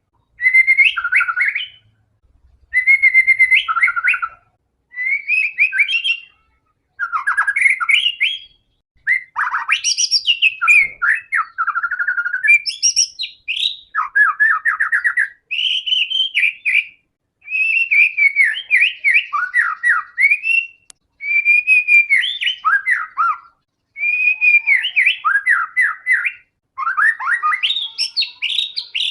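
White-rumped shama (murai batu) in full, persistent song: a long run of whistled phrases, each about one to two seconds of sweeping notes and rapid trills, with short pauses between them.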